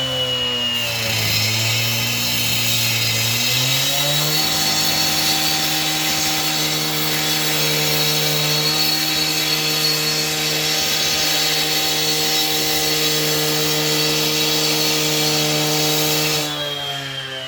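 Powered saw running: its motor slows briefly, speeds back up about four seconds in and holds a steady high speed with a high whine for about twelve seconds, then starts to slow near the end.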